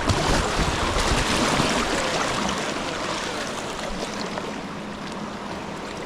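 Rushing river whitewater: a steady hiss of moving water, a little louder in the first two seconds, with some wind buffeting the microphone.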